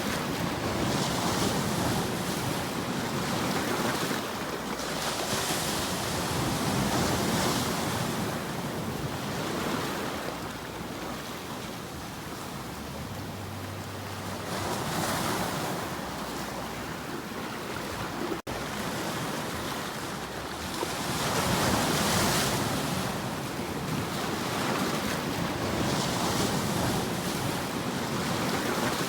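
Ocean surf: waves washing in and receding, a steady hiss of water that swells and falls every few seconds. One very brief dropout about two-thirds of the way through.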